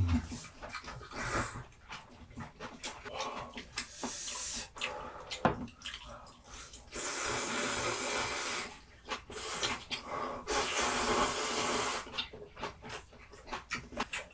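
Close-miked slurping of spicy ramyun noodles in several long pulls, with wet chewing and mouth clicks between them.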